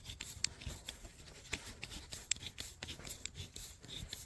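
A hose clamp being unscrewed by hand: scattered light metallic clicks and handling noise at an irregular pace.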